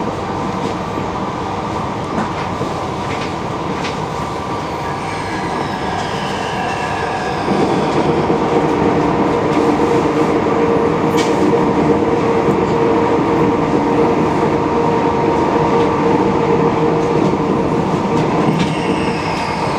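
Regional passenger train running at speed, heard from inside the carriage: a steady rumble of wheels on the rails with a few faint falling wheel squeals. About seven seconds in the running noise grows louder and a steady hum comes in over it.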